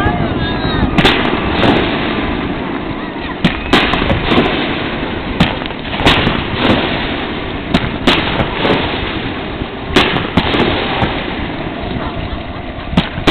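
Fireworks display: a string of sharp bangs at irregular intervals, about a dozen in all, over a steady low rumble.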